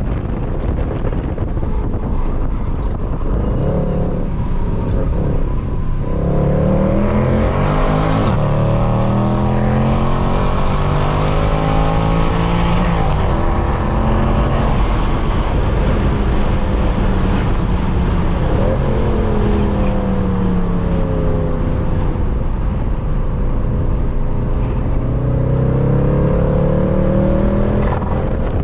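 Mercedes C63 AMG's 6.2-litre V8, with its secondary cats and resonators deleted, driven hard on track. The engine note climbs and falls several times as the revs build and drop through the corners.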